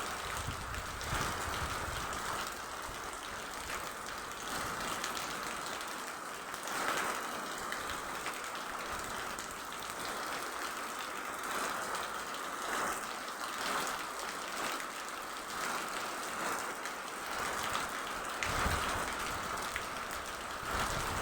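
Steady rain falling: a continuous hiss with brief swells every few seconds.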